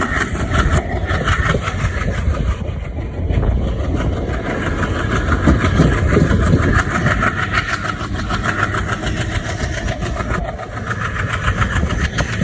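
Passenger train running behind a WDP3A ALCO diesel locomotive: the steady sound of the diesel engine together with the rumble of the wheels on the track.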